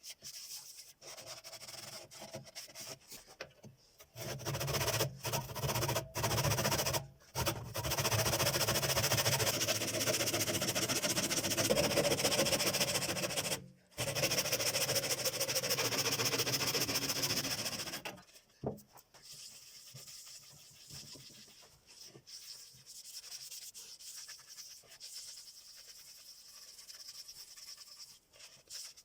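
Rubbing against a bird cherry wooden bowl, broken by several abrupt cuts. It is loudest through the middle stretch and fainter in the last third.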